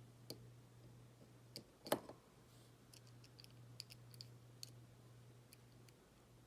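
Scattered light clicks and taps of small model-kit parts being handled during assembly, with one sharper knock about two seconds in, over a faint steady low hum.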